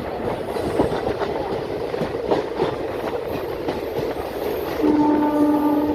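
A passenger train running on the track: a steady rumble with scattered knocks from the wheels over the rails. Near the end a horn sounds, held for about a second.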